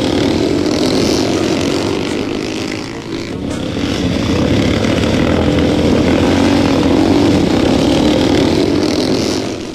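Several small motorcycle engines revving hard as the machines race around, a dense continuous drone that swells about a second in and again near the end.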